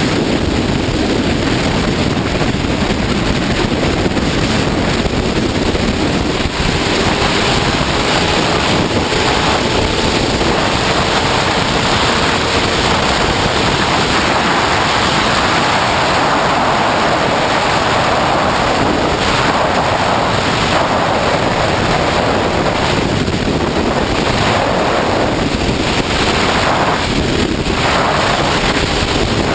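Steady, loud wind rush on the microphone of a sportbike riding at freeway speed. A faint engine note rises in pitch about a quarter of the way in.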